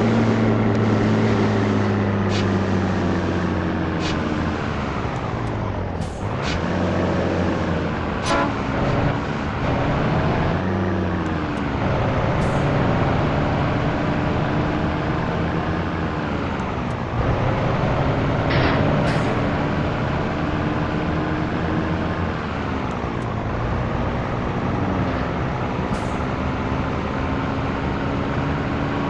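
Scania T113 truck's six-cylinder diesel engine pulling on the road. Its pitch sags and then drops and climbs again about four times, as with gear changes, and a few short high clicks sound over it.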